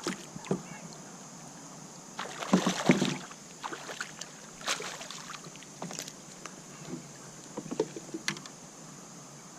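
Scattered knocks and clatter on a kayak as a caught bass is handled aboard, with a louder burst of knocking about two and a half seconds in and a few single sharp clacks after it.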